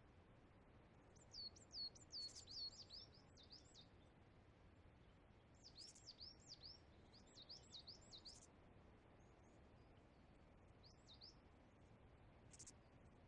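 Near silence with faint bird chirps: quick runs of high, hooked chirps in three bursts, the last one short.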